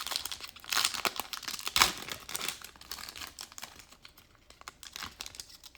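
Basketball trading cards and their foil pack wrappers being handled: crinkling and a quick run of card-on-card clicks and rustles, busiest in the first two seconds and thinning out after that.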